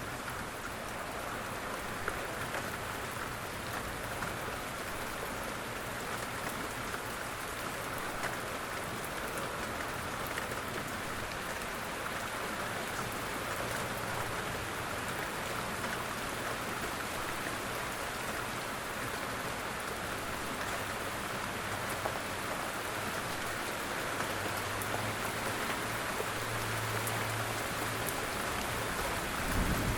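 Steady rain falling and pattering on surfaces, with scattered distinct drops. A faint low hum comes and goes in the second half, and a soft low thump sounds near the end.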